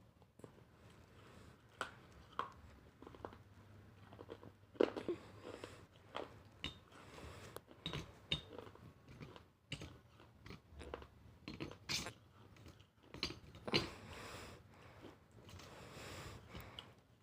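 Close-up chewing and crunching of food, with irregular short crunches and mouth clicks; the loudest come about five, twelve and fourteen seconds in.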